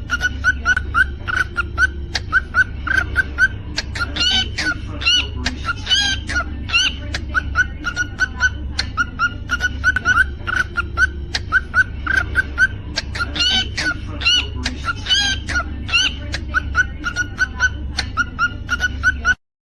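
Cockatiel chirping in quick short notes, about four a second, with a few louder whistled notes that glide up and down. A low steady hum runs underneath, and the sound cuts off suddenly near the end.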